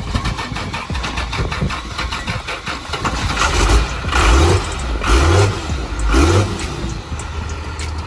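Truck engine running with an even rhythmic beat, then revved hard three times in quick succession, about four, five and six seconds in.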